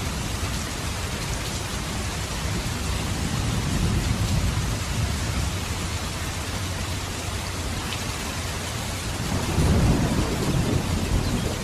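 Steady rain falling, with low rolling thunder that swells about four seconds in and again, louder, near the end.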